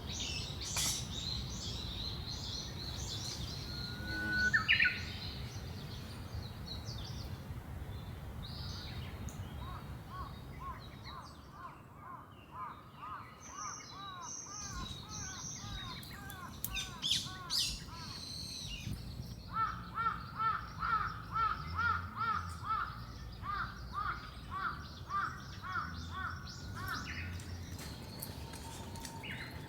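Wild birds calling in woodland: high chirps, then long runs of short, evenly repeated arched call notes, several a second, over a steady low background rush.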